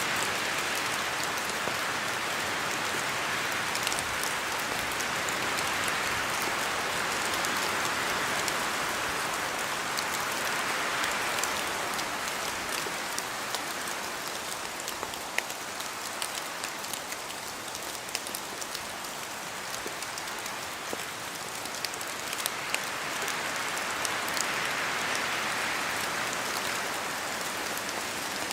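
Steady rain in a forest with wind, and drops falling from the trees making many small separate ticks. The rushing sound swells and eases a couple of times, as if with gusts.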